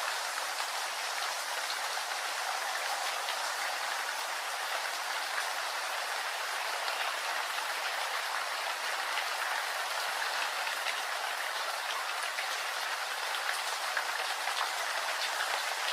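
Steady rain falling: an even, continuous hiss of many drops, with scattered single drop ticks.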